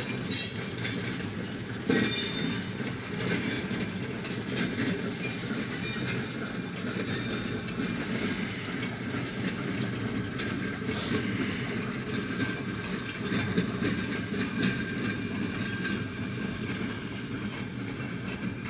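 Freight train of covered grain hopper cars rolling slowly past: a steady rumble of wheels on rail, with a few louder clanks.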